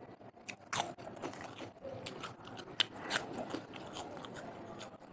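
Close-up chewing and crunching of crisp food, a run of irregular sharp crunches with the loudest bites a little under a second in and around three seconds in.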